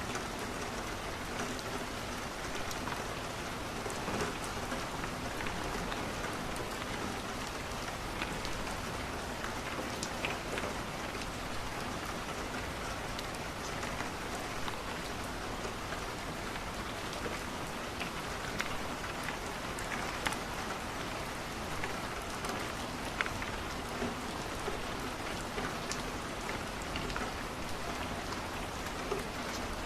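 Steady rain falling on a window, with scattered sharp crackles from burning wood in a fireplace every few seconds.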